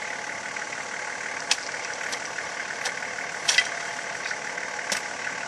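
Nissan Patrol 4WD's engine idling steadily, with a few short sharp knocks over it.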